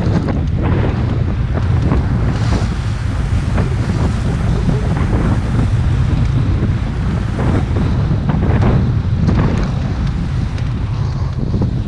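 A motorboat running steadily at speed, its motor a constant low drone, with heavy wind buffeting the microphone and water splashing along the hull.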